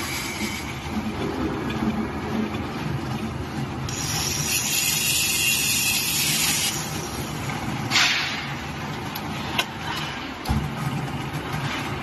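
Steel-bar thread rolling machine running with a steady mechanical hum. A hiss lasts about three seconds midway, followed by a sharp clank and a few lighter knocks.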